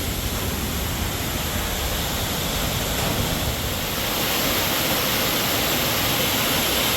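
Steady rushing noise of a golf cart riding along a trail, with a rumbling low end; it grows a little louder about four seconds in.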